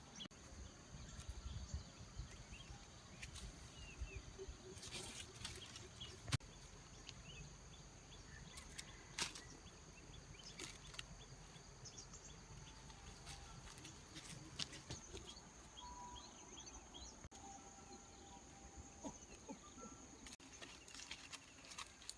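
Quiet outdoor ambience: a steady high-pitched insect drone throughout, with scattered small clicks and rustles and a few faint bird chirps.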